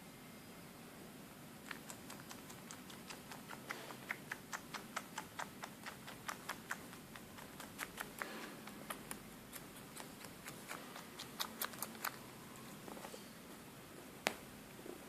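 Cat sucking on its own tail like a nursing kitten, making small rhythmic sucking clicks about three a second, then a single sharper click near the end.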